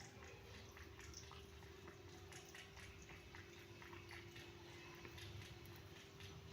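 A kitten feeding: faint, quick, irregular wet mouth clicks of chewing and lapping, over a steady low hum.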